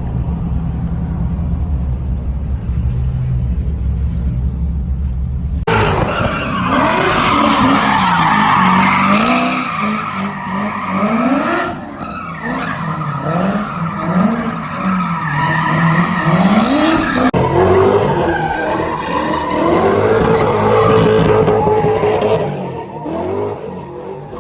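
A car engine running steadily at low revs for several seconds. Then, after a sudden change about five seconds in, a drift car is run hard: the engine revs rise and fall again and again, with tyre squeal as the car slides.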